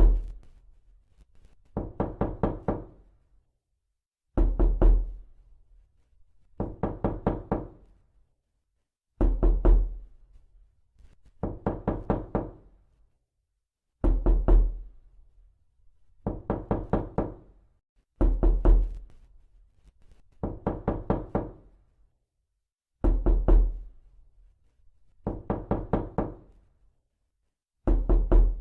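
Repeated knocking: bursts of four or five quick knocks about every two seconds, alternating between a heavier set with a deep thud and a lighter set, each knock ringing briefly.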